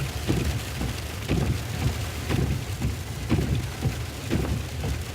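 Inside a moving car in an ice storm: a steady low rumble of the car on the road, with irregular ticks of freezing rain hitting the car's body and windshield.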